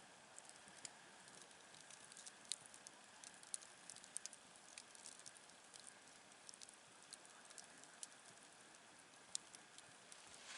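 Wood campfire burning: faint, irregular crackles and small pops over a soft hiss.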